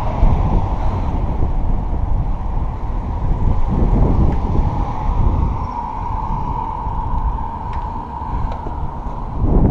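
Wind buffeting the microphone of a rider on a moving bicycle: a steady low rumble with a faint steady whine above it.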